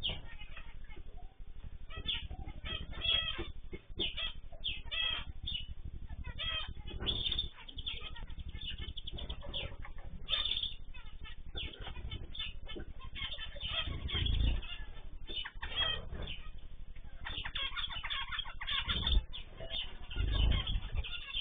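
A mix of small cage birds chirping and calling over one another without a break, with a few low thumps, the loudest near the end.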